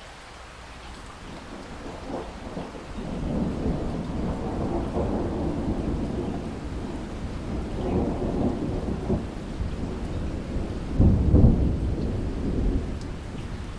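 Rain falling steadily with a long roll of thunder: the low rumble builds a couple of seconds in, rolls in waves, is loudest about eleven seconds in, then eases off.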